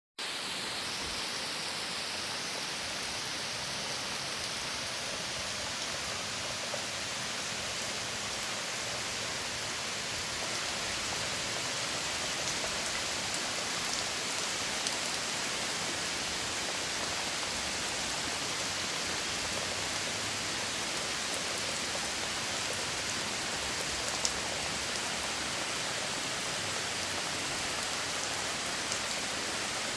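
Steady spring rain falling, a continuous even hiss with scattered drop ticks, one sharper drip about 24 seconds in.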